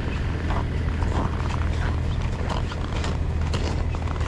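Footsteps crunching on frozen snow, a short crackle about every half second, over a steady low rumble of wind buffeting the microphone.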